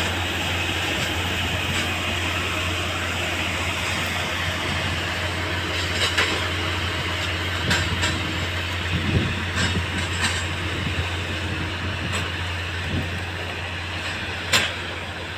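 Railway track maintenance machine running with a steady low hum, broken by a few sharp knocks, the loudest near the end.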